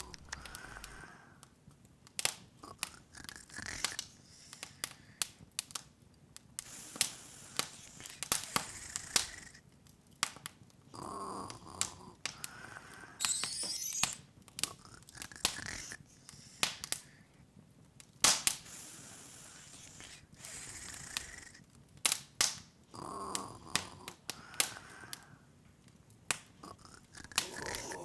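Open wood fire crackling: irregular sharp pops and snaps over a soft hiss, sometimes in quick clusters.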